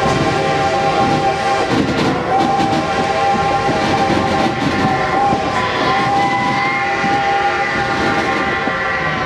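Vintage passenger train pulled by a coal-burning steam locomotive, heard from aboard: the coaches rumble along the track under a long, steady, shrill tone made of several pitches that shift slightly partway through.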